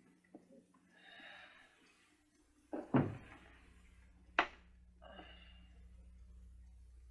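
A heavy thud about three seconds in, followed a second and a half later by a sharp knock, with faint breathy voice sounds before and after.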